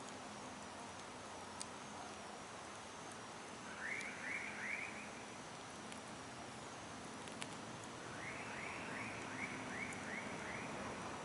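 Campfire crackling faintly with a few sharp pops, while an animal call, a short rising chirp repeated quickly, sounds twice: three chirps about four seconds in and about six more near the end.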